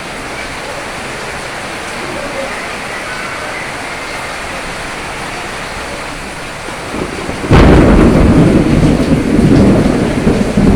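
Steady rain falling, then about two-thirds of the way through a sudden loud thunderclap that goes on rumbling heavily under the rain.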